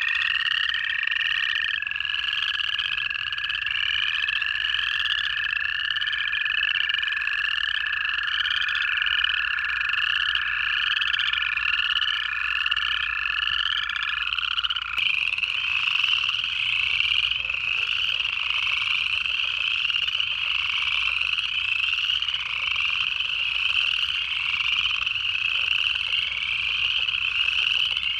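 A chorus of upland chorus frogs giving their rising trills, many calls overlapping about once a second. Under them, American toads give long, steady trills at a lower pitch that stop about halfway through.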